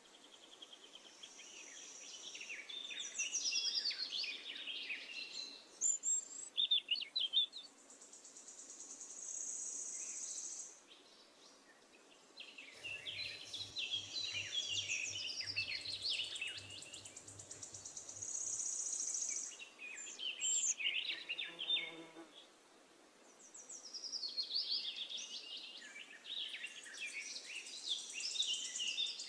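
Birds chirping and singing in bursts of quick trills, alternating with a steady high-pitched buzz that comes and goes every few seconds.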